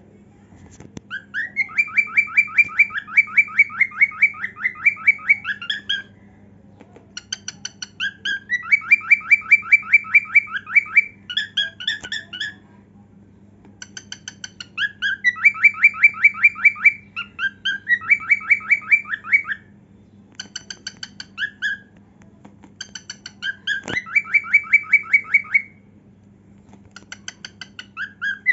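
Cockatiel singing: phrases of rapid, pulsing chirped notes, each lasting a few seconds, repeated over and over with short pauses between.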